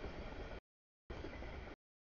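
A freight train of tank cars rolling past a grade crossing: a steady rumbling noise. It comes through in two half-second stretches, cut off abruptly by total dropouts in the audio feed.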